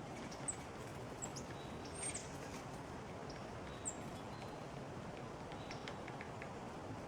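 Small backyard songbirds giving a few short, high chip calls, about four in the first four seconds, over a steady background hiss.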